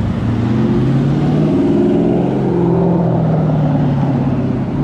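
A car engine running nearby with a low, steady drone whose pitch drifts gently up and down.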